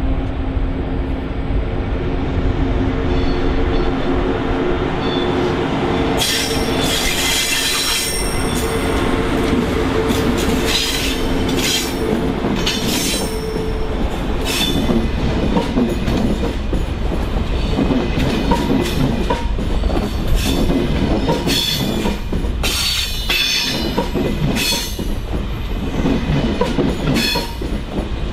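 Train rolling slowly through station tracks. A steady hum is heard at first; from about six seconds in, uneven clatter of wheels over rail joints and points follows, with repeated bursts of high wheel squeal.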